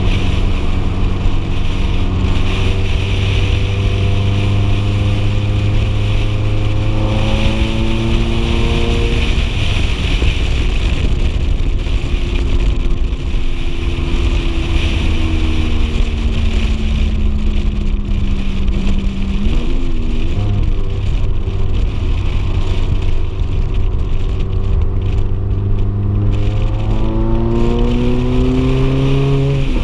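Ferrari F430's V8 engine pulling under acceleration, its pitch rising for several seconds before a gear change about nine seconds in, easing off through the middle, then climbing again near the end. Wind rushes over the car-mounted microphone of the open-top car throughout.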